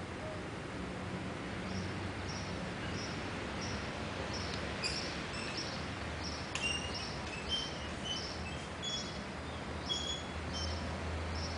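Small birds chirping: short, high chirps in quick runs that grow busier from about halfway, over a steady low background hum.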